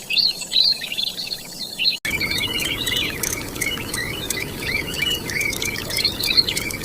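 High, rapid chirping and twittering of small birds, many short wavering calls, joined about two seconds in by a steady background hiss.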